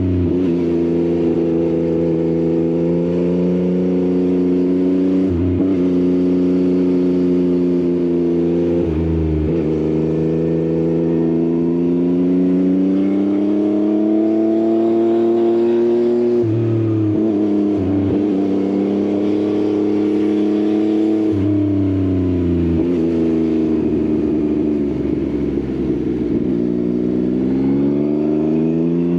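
Yamaha XSR900's inline-three engine through an Akrapovič exhaust, heard from the rider's seat under way: the engine note climbs, drops sharply at each of several gear changes, falls away for a few seconds while slowing, then rises again near the end.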